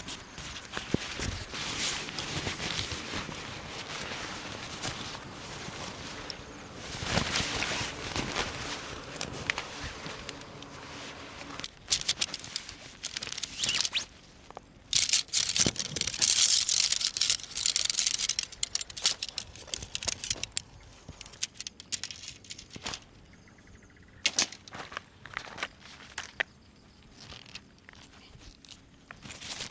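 Camping gear being handled: irregular rustling and crinkling of fabric or bags, with scattered clicks and knocks, loudest in a long rustling stretch about halfway through.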